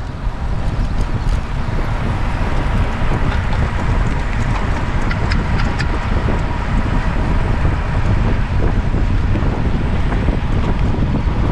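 Wind buffeting the microphone: a steady, loud rumbling noise with hiss above it.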